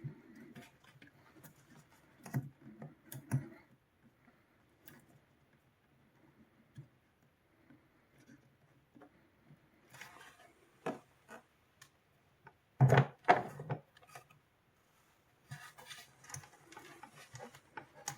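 Scattered clicks and knocks from hands handling parts and tools at a workbench, with a louder cluster of knocks near the middle.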